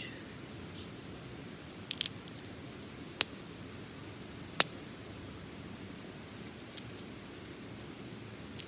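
Small wood fire burning in a colander mini fire stand, a low steady hiss with a few sharp crackling pops: a quick cluster about two seconds in, then single pops a second or so apart.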